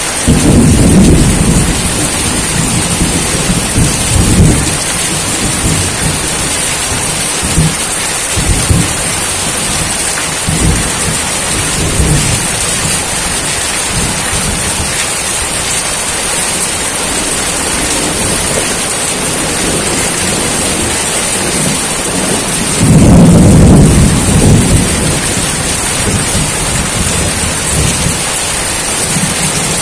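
Steady heavy rain hissing, with low rumbles of thunder rolling in a few times; the loudest rumble comes about two thirds of the way through.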